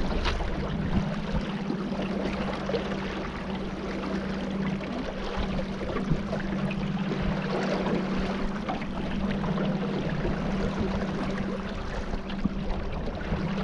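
A boat's motor running at a steady drone, over a continuous rush of water and wind.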